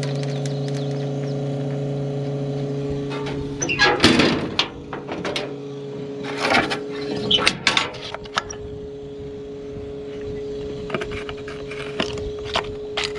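A heavy-equipment diesel engine running steadily, with sharp metal clanks and knocks about four seconds in and again a few seconds later.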